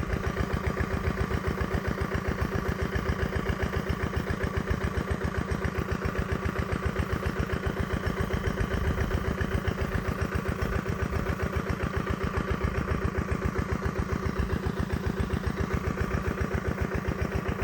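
An engine idling steadily, with an even, rapid low pulse of about six beats a second.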